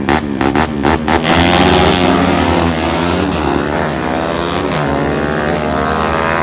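Drag-racing engine giving a few sharp bangs about three a second, then about a second in launching and accelerating hard, its pitch rising and stepping up again and again as it pulls away.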